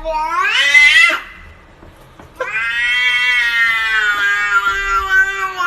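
A cat giving two long, drawn-out meows. The first rises in pitch and breaks off about a second in. The second starts about two and a half seconds in and holds for about three seconds, sinking slowly in pitch.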